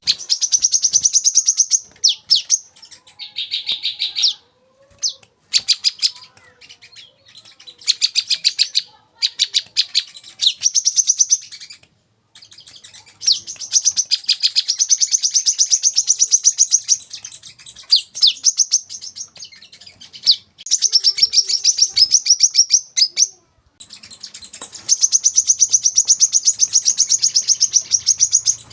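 Brown-throated sunbird singing: fast runs of high, sharp chirps lasting a few seconds each, broken by short pauses.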